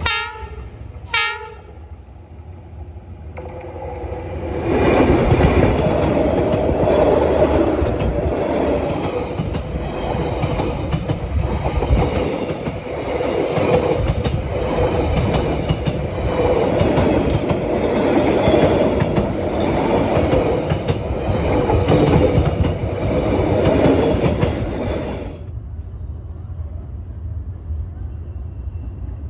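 D19E diesel-electric locomotive gives two short horn blasts. Then the train passes close by: a loud rumble of wheels on rails and running gear that builds over a couple of seconds, holds for about twenty seconds, and drops away suddenly as the last coach goes by.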